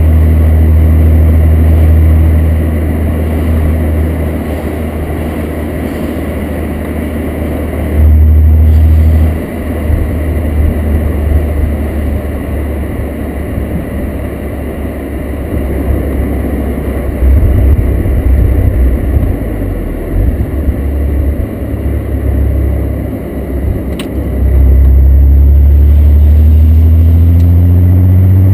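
VR6 engine with a 24-valve conversion, sounding through a Techtonics Tuning exhaust while the car is driven: a deep exhaust drone that swells under throttle and falls back while cruising, with road noise. It surges loudly a few times and climbs in pitch near the end as the car accelerates.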